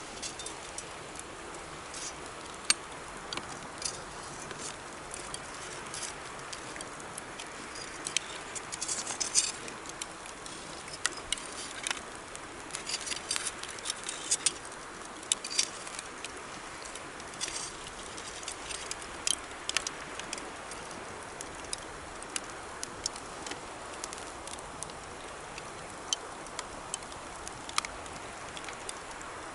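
Wood campfire crackling, with irregular sharp pops that come thickest in the middle stretch, over the steady rush of a flowing river.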